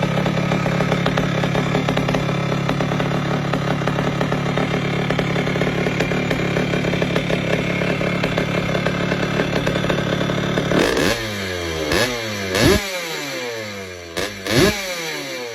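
The two-stroke single-cylinder engine of a 1975 Honda CR125 dirt bike running hard at steady high revs. About eleven seconds in the note drops away. It then goes on in repeated falling sweeps, with a few sharp blips and cracks.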